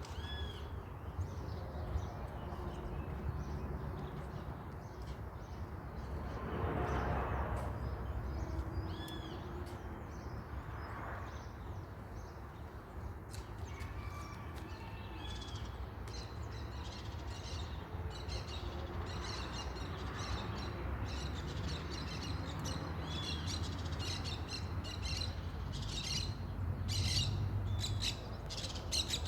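Small birds chirping and calling in short, repeated arched notes, more often near the end, over a steady low rumble.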